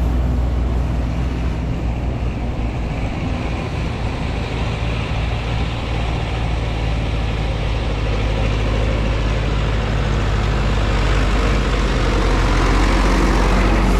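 Continuous riding noise from an electric ride through snow: a steady rush of wind on the microphone and tyre noise, with a low steady hum underneath.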